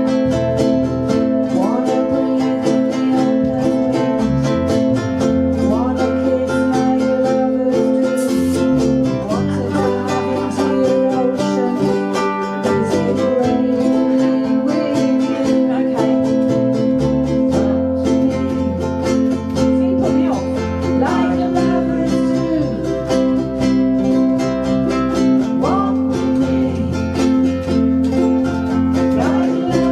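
Ukuleles strumming chords in a live band, over a low bass line that changes every few seconds.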